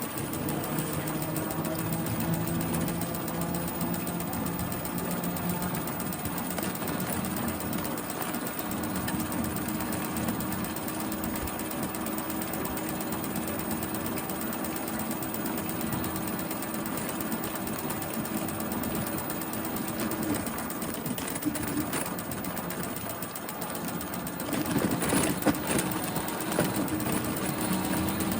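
Bicycle being ridden, with a rapid, steady mechanical rattle from the bike and a steady hum under it: an annoying noise from a part that needs upkeep. A few sharp clicks sound near the end.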